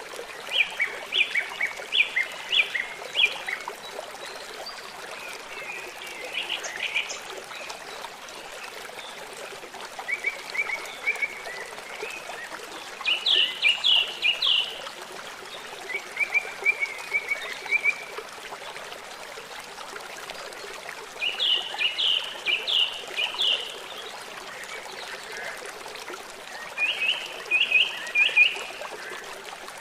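A songbird sings short phrases of rapid repeated chirps, seven phrases a few seconds apart, over a steady hiss of trickling water.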